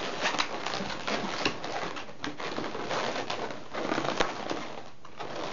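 Inflated latex 260 modeling balloons squeaking and rubbing against each other as they are twisted and pressed together, a dense scatter of short squeaks and creaks.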